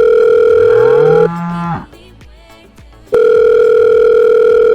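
Telephone ringback tone: a steady electronic tone sounds for about two seconds, stops for about two seconds, then sounds again. As the first tone ends, a short rising moo-like call is heard.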